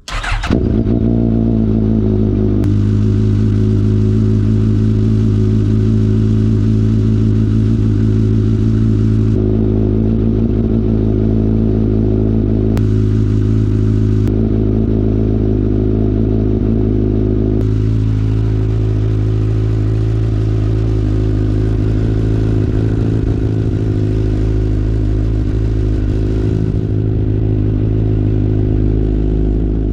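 Suzuki GSX-S1000's inline-four engine, breathing through a Leo Vince full-system aftermarket exhaust, catching at the very start on a cold start and then idling at a steady, even pitch.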